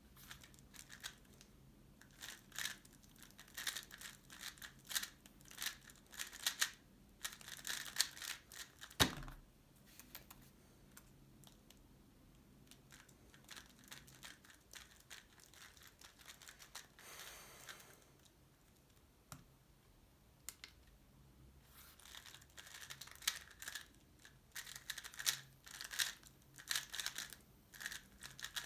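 Tornado V3 Pioneer 3x3 speedcube being turned fast, a dense run of quick plastic clicks, with one sharp knock about nine seconds in. A quieter stretch follows before another fast run of turning near the end.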